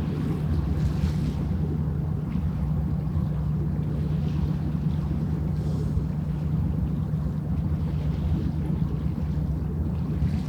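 Steady low hum of a passing ship's engine.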